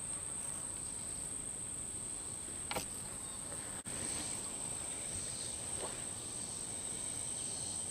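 Insects droning steadily at one high pitch, with a short click about three seconds in.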